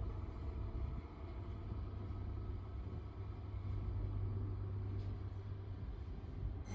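Steady low rumble with a constant deep hum, the ambience of a railway station with train machinery running.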